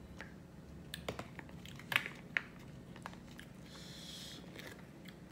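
Chewing while eating, with a few sharp mouth clicks, then a brief rustle of a plastic food packet being handled about four seconds in.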